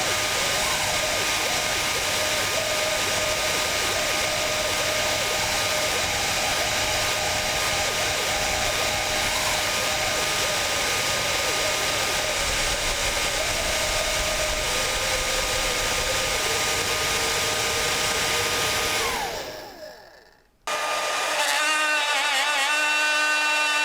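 Electric hairdryer blowing steadily, then switched off, its motor winding down to silence about 20 seconds in. Moments later a different small electric motor starts with a buzzing, slightly wavering tone.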